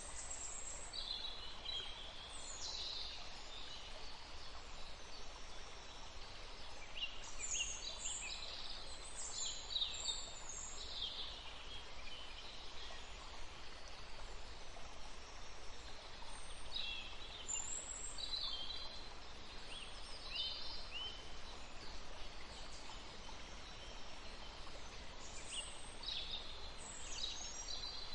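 Several songbirds chirping and trilling in bursts, high-pitched, over a steady background hiss of forest ambience.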